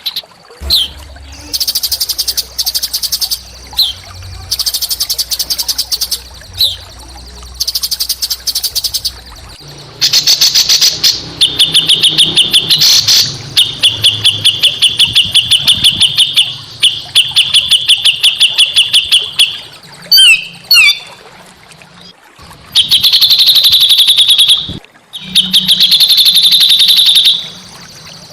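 Small songbirds singing loud, rapid, harsh trills and chatter in repeated bursts of one to three seconds with short pauses between. This is the rough 'masteran' song used to tutor and provoke a caged white-rumped shama.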